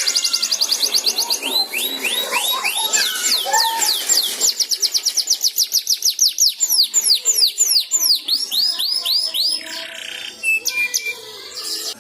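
Domestic canary singing in long rolling trills of quick, repeated downward-sweeping high notes, several a second, the pace changing from phrase to phrase. The song stops just before the end.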